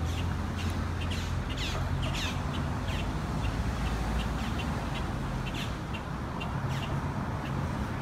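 Birds calling outdoors: many short, sharp calls, some falling in pitch, repeated through the whole stretch over a steady low rumble.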